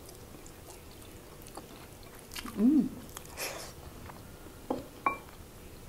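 A person eating boiled pork spare ribs with her hands: quiet chewing and mouth sounds, with one short hummed "mmm" near the middle, a breath just after, and a couple of small clicks later.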